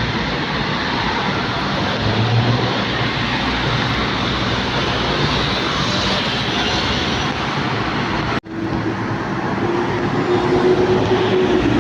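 Jet airliner engines, a loud steady rushing noise. It cuts out for an instant about eight seconds in, and afterwards a steady tone sits under the noise, dipping slightly in pitch near the end.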